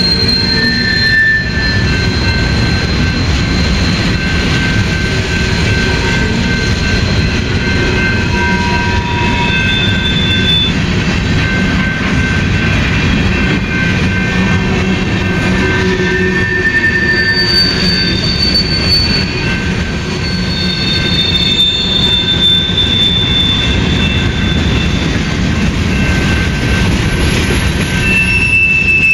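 Freight train of covered grain hopper cars rolling by behind BNSF GE Dash 9 locomotives: a steady rumble of wheels on the rails, with high wheel squeal in several pitches coming and going.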